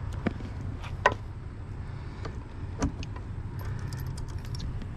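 A few sharp metallic clicks and clinks of hand tools and small hardware being handled, the loudest just after a second in, with lighter ticks near the end. A steady low hum runs underneath.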